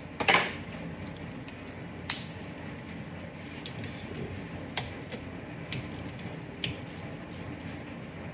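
Hand tools working on a car's brake caliper: a short loud rasping burst about a third of a second in, then scattered sharp clicks and clinks of metal.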